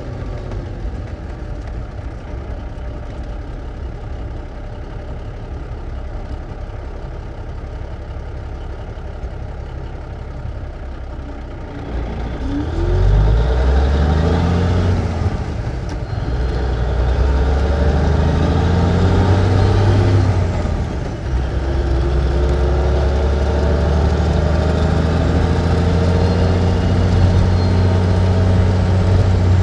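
Engine of a 1954 big rig truck heard from inside the cab, idling steadily. About twelve seconds in it revs up and the truck pulls away; there is a brief drop in engine sound during a gear change about 21 seconds in, and then it runs on steadily under load.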